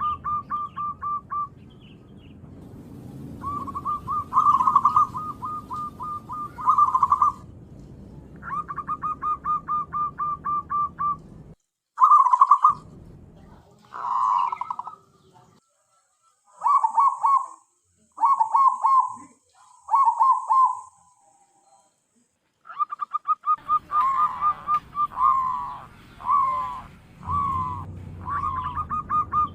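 Zebra dove (perkutut) cooing: phrases of rapid staccato notes, repeated with short pauses between them.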